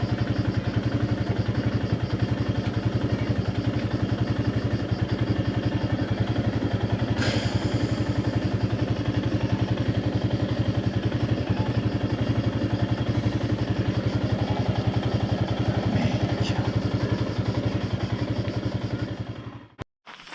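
Motorcycle engine running at a steady, unchanging speed, with a couple of brief clicks, cutting off suddenly near the end.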